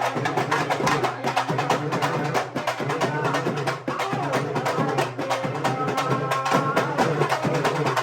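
Urumi melam drum ensemble playing fast, dense drumming over a steady low hum, with a few short high held tones about six seconds in.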